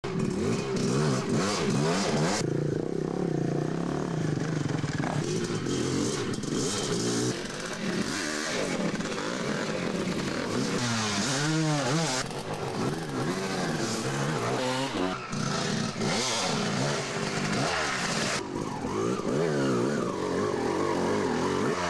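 Several off-road motorcycles revving, their engine pitches rising and falling and overlapping as the riders work the throttle through mud.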